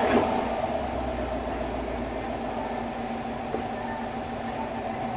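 A Chevrolet Camaro SS 1LE's 6.2-litre LT1 V8 idling steadily just after start-up on fresh 0W-40 synthetic oil. The level settles down in the first second and then holds even.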